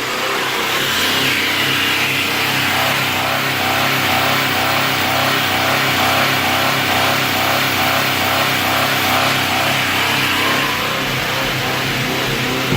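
Subaru Impreza's flat-four boxer engine held steadily at high revs, run hard to burn off carbon deposits during a decarbonisation with combustion cleaning foam.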